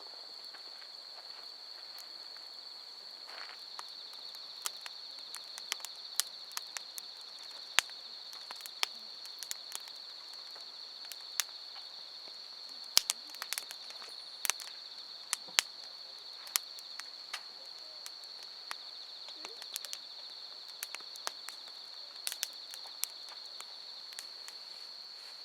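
Wood campfire crackling, with irregular sharp pops and snaps of firewood, over a steady high-pitched trill of night insects.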